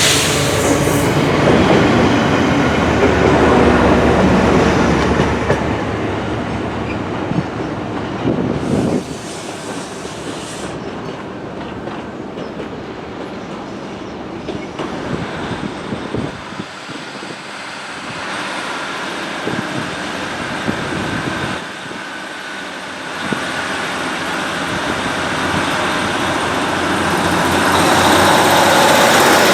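A train running past on the line, loudest in the first several seconds and dropping away about nine seconds in, then growing louder again near the end.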